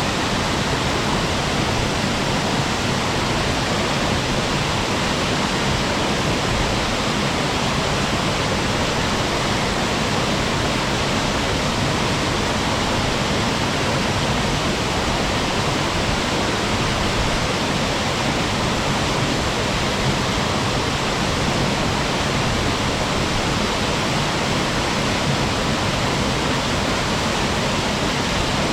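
Waterfall crashing into its pool: a steady, unbroken rush of falling water.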